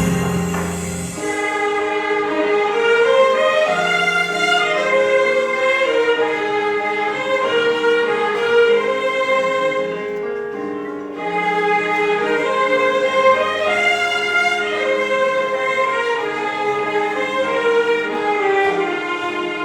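Music led by a violin playing a melody of rising and falling runs, with a short drop in level about ten seconds in.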